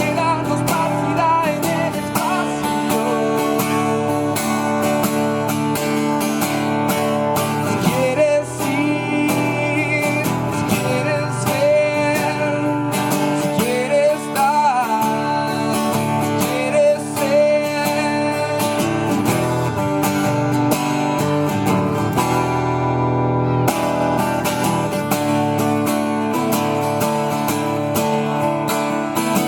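Acoustic guitar strummed in a steady instrumental passage of a song, with a melody line that bends in pitch over it in the middle.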